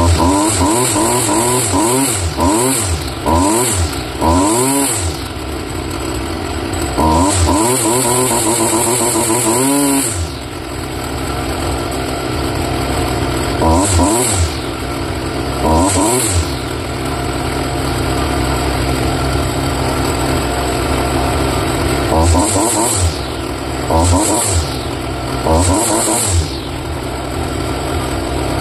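Stihl petrol grass trimmer engine running on a freshly replaced carburetor, blipped up and down repeatedly, held at high revs for a few seconds about seven seconds in, then idling steadily until a string of short rev blips near the end.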